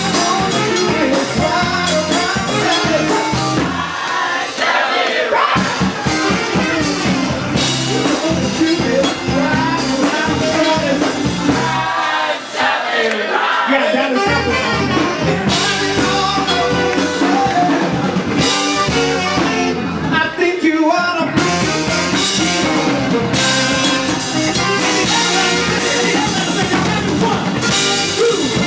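Live blues band playing with drum kit, and a woman's voice singing over it.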